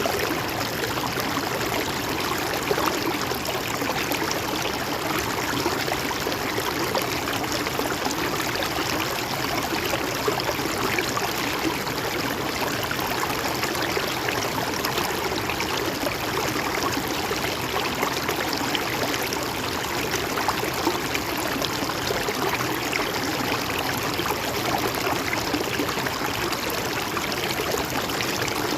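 River water flowing steadily, a continuous, even rush and gurgle of running water.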